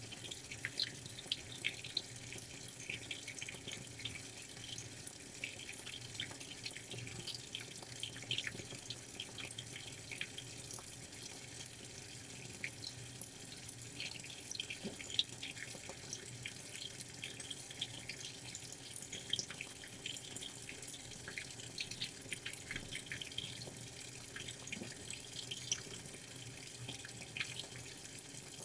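Washing machine with water splashing and dripping inside the drum as the wet load is washed, many small irregular splashes over a steady low hum.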